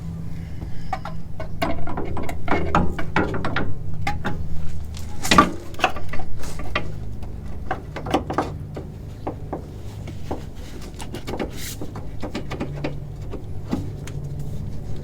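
Irregular clicks and knocks of car parts and hand tools being handled while a new rear shock absorber is fitted, with one louder knock about five seconds in, over a low steady hum.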